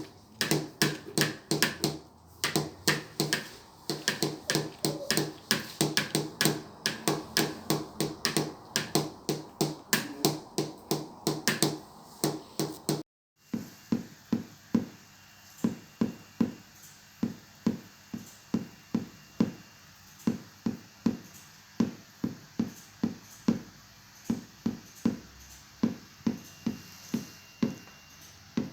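Hand tapping on a tabletop, beating out the same short rhythmic pattern over and over, several taps a second: the 'stuk-ritm' tapping drill used to pace the eyes while reading. About 13 seconds in the sound cuts out for a moment, then the tapping resumes with a different tone.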